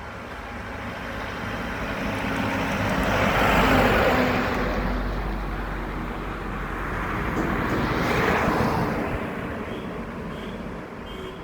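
Road traffic: two vehicles pass close by one after the other. Each one's engine and tyre noise swells and fades, the first loudest about four seconds in and the second about eight seconds in, over a steady low rumble.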